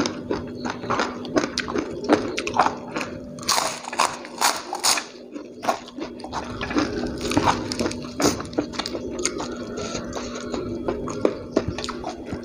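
A person chewing a mouthful of fried chicken and raw vegetables, with repeated crisp crunches that are loudest and densest about four to five seconds in, over a steady low hum.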